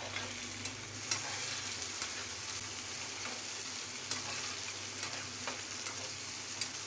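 Diced tomatoes, onions and green chillies sizzling in ghee in a frying pan while being stirred, with a few light scrapes of the spoon against the pan.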